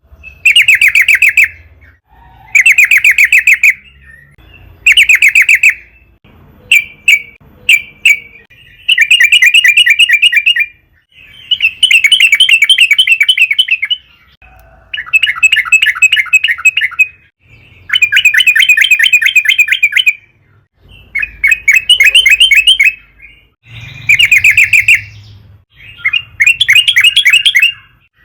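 Yellow-vented bulbul (trucukan) singing, loud and over and over: quick, bubbly chattering phrases of a second or two each, with short pauses between them.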